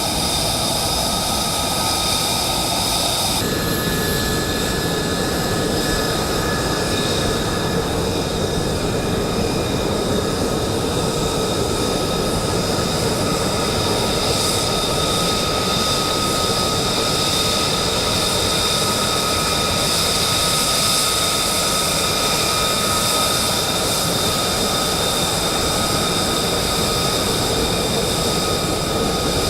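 F-35A Lightning II's Pratt & Whitney F135 turbofan engine running: steady jet noise with several high, steady whining tones over it. The sound shifts slightly about three and a half seconds in.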